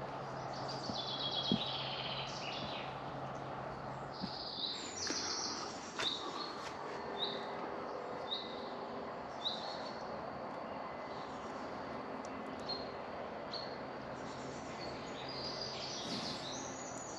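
Small birds singing outdoors. One bird repeats a short high chirp about once a second, and busier song phrases come near the start and again near the end, over a steady background hiss.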